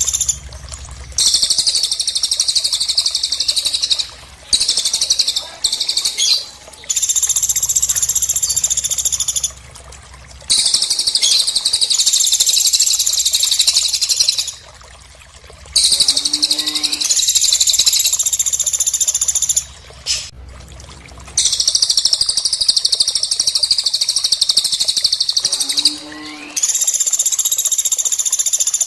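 Recorded cililin and pelatuk bird calls: long, rapid, high-pitched trills lasting several seconds each, repeated after short pauses, with a lower, rising call heard twice.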